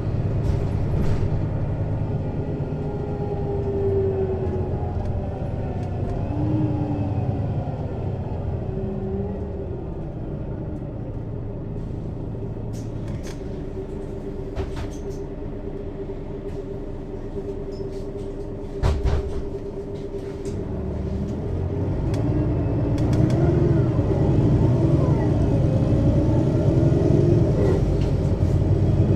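Mercedes-Benz Citaro city bus engine and ZF Ecomat automatic gearbox heard from over the engine. The note falls away as the bus slows, then runs steady and quieter for about ten seconds with a single knock near the middle. It grows louder with rising pitch as the bus pulls away again.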